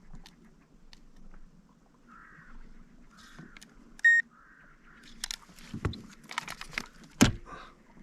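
A single short electronic beep from a digital scale about four seconds in, then a run of sharp clicks and rattles from handling the scale and the caught asp, the loudest near the end.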